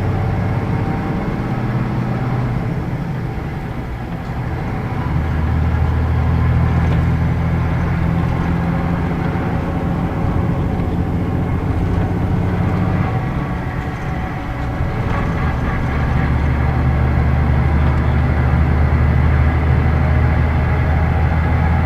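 Scania K113 bus's 11-litre straight-six diesel running under way. The engine note dips about 4 seconds in and again about 14 seconds in, then climbs back, as gears are changed on the manual gearbox.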